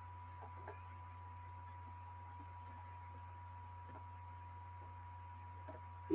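Quiet recording background: a steady low electrical hum and a thin steady high tone, with a few faint scattered clicks.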